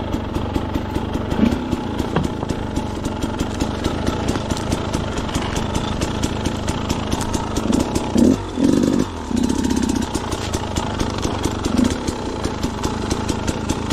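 KTM two-stroke dirt bike engine running at low revs with rapid, even firing, briefly louder about eight seconds in.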